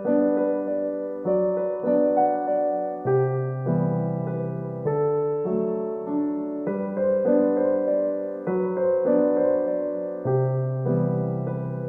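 Background music: a slow, gentle piano or electric piano piece, with chords and notes struck about every second or so.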